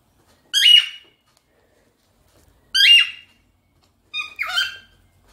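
A pet bird giving three short, loud whistled squawks a couple of seconds apart, the last one broken into two parts.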